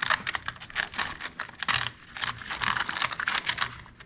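Small metal grease fittings clicking and rattling as they are sorted through in a fitting kit to find the right size, a quick irregular clatter that thins out near the end.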